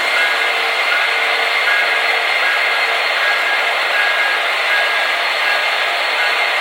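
Several sound-equipped HO scale DCC diesel locomotives running together, the diesel engine sounds from their sound decoders blending into one steady, hissy drone with a few faint steady tones over it.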